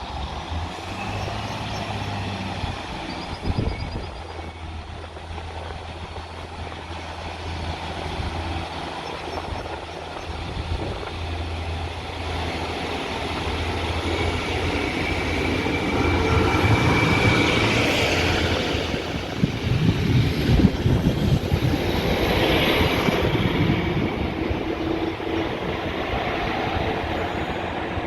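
Diesel multiple unit train running at the station: a steady low diesel engine drone that grows louder, then the louder rumble of the train passing, with a thin high squeal and rapid wheel clatter in the second half.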